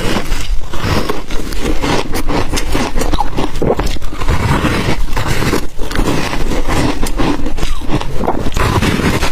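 Ice being bitten and chewed close to the microphone: a loud, dense run of irregular crunches and cracks with no pause.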